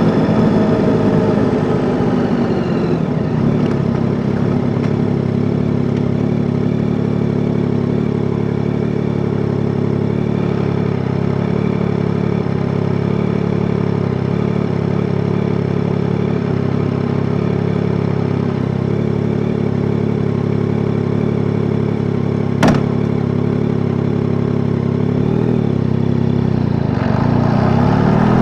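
Yamaha Tracer 9 GT's 890 cc inline-three engine slowing down over the first few seconds, then idling steadily for about twenty seconds. A single sharp click comes a little past twenty seconds in, and near the end the revs begin to climb.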